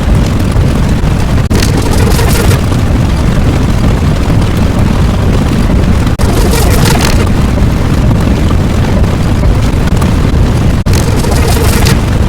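Loud, continuous rumbling sound effect, with a short hiss about every four to five seconds, each just after a brief dip in loudness, like a repeating loop.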